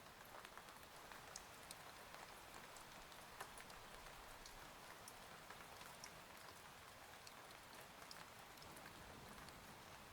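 Faint, steady rain: an even hiss with scattered single drops ticking.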